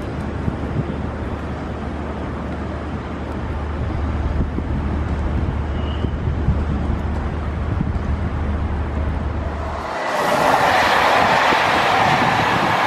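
Steady low rumble of a suburban electric train crossing a steel railway bridge. About ten seconds in it cuts suddenly to the louder rush of a train of Corail passenger coaches passing at speed close by.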